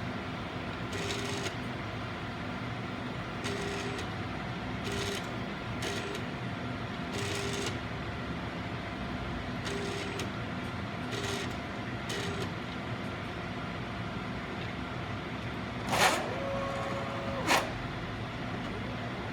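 Agilent 7693A autosampler sample tray running over a steady machine hum, with short whirring moves at irregular intervals. About sixteen seconds in comes a louder move that holds a steady tone for about a second and a half and ends in a sharp sound. These are sounds that the owner finds strange.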